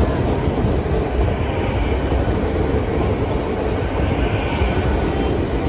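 Train running past close by over the level crossing: a loud, steady rumble of wheels on the rails.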